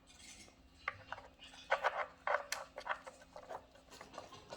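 A dog nosing and pawing at a treat puzzle toy, its covers scraping and clicking against the base in short, irregular bursts as he searches for hidden treats.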